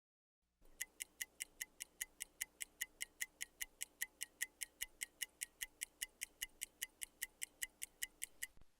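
Fast, even ticking like a clock or timer sound effect, about five ticks a second. It starts just under a second in and stops just before the end.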